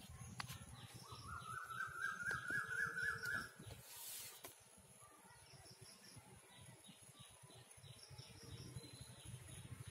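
A bird calls with one wavering, warbling note lasting about two and a half seconds, over low rustling and handling noise. A short swish comes about four seconds in.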